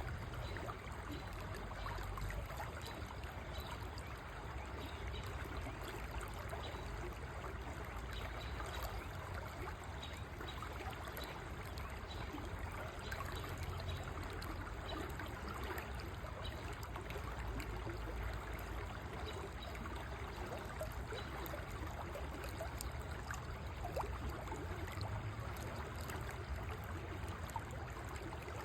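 River water flowing, a steady rushing trickle with a deep rumble underneath.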